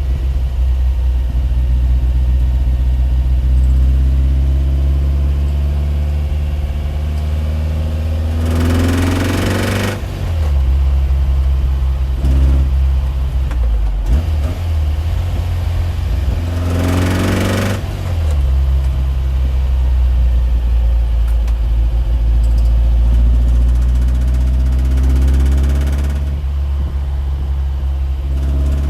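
An engine running steadily with a low hum, rising twice into brief louder surges with a sliding pitch, once about a third of the way in and again a little past halfway.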